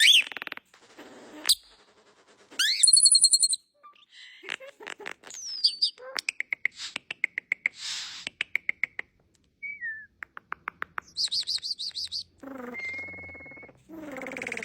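Starling singing a varied, rambling song: runs of rapid clicks, held and gliding whistles, and harsh, raspy phrases, one after another with short gaps.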